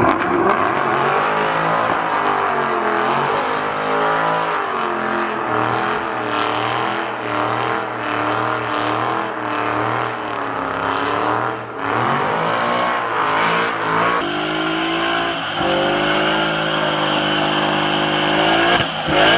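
V8 muscle car engine revving, its pitch repeatedly rising and falling. About fourteen seconds in the sound cuts to a steadier engine note.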